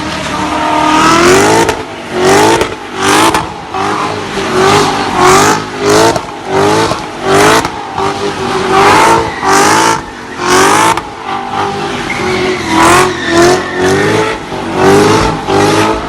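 A high-performance car engine being revved again and again, each rev rising in pitch and falling back, about once a second.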